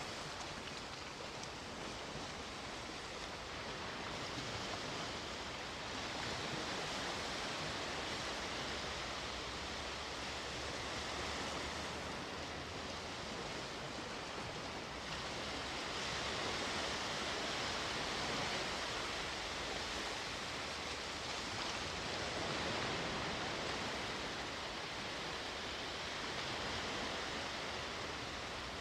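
Sea waves washing onto the shore: a steady rush of surf that swells and eases every several seconds.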